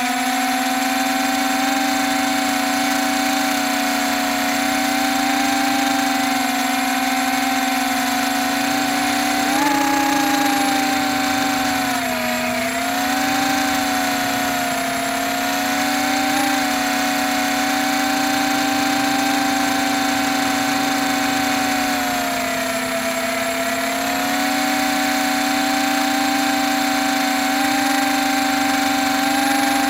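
Small HBx quadcopter's electric motors and propellers whining steadily in flight, the pitch rising once and dipping twice as the throttle changes. The drone has a bad motor and a loose arm and flies roughly.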